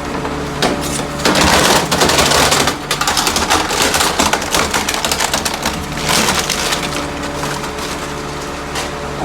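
Rear-loader garbage truck's packer blade crushing refuse, with cracking and splintering that is loudest for the first couple of seconds and then keeps crackling before easing off. The truck's engine runs steadily under it.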